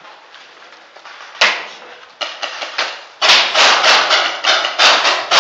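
Paintball gunfire: a single sharp crack about a second and a half in, a few lighter pops, then from about three seconds in a rapid string of loud shots and paintball hits at roughly five a second.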